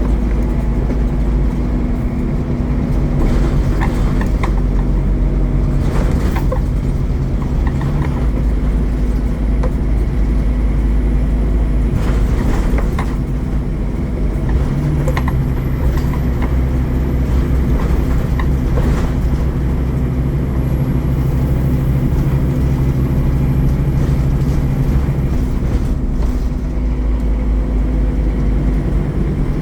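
Scania N230UD Omnicity double-decker bus's five-cylinder diesel engine running steadily under way, with occasional knocks and rattles.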